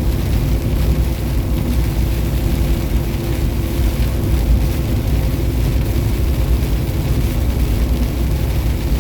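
Steady low drone of a semi truck's diesel engine and road noise, heard from inside the cab while cruising at highway speed.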